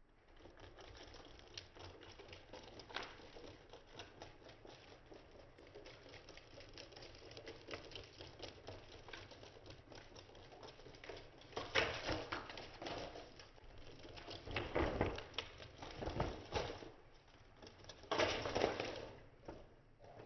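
Kittens scuffling and pattering about on a surface: a run of small taps and scuffs, with louder rustling bursts about twelve, fifteen and eighteen seconds in.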